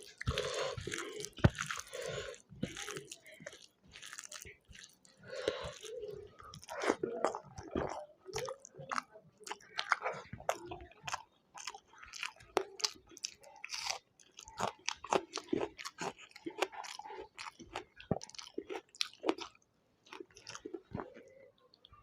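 Close-miked chewing with many irregular crunches and wet mouth clicks: a person eating a meal, mukbang-style.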